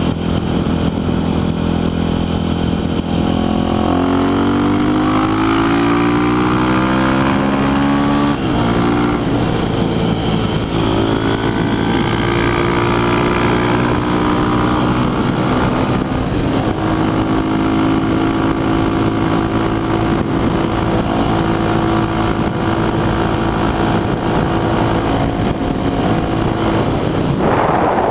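Dirt bike engine accelerating hard: the revs climb about four seconds in, drop suddenly at a gear change around eight seconds, climb again, and then hold steady at high revs for the rest of the run.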